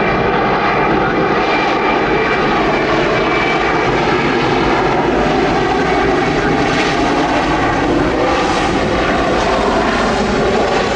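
A fixed-wing aircraft's engines running loud and steady as a plane passes close by.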